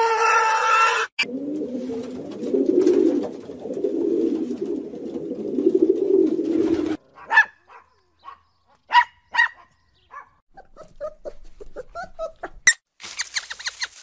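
A pig squealing for about the first second, then pigs grunting in a steady low run for several seconds that cuts off abruptly. After that a dog gives a few short, sharp barks, followed by fainter short calls.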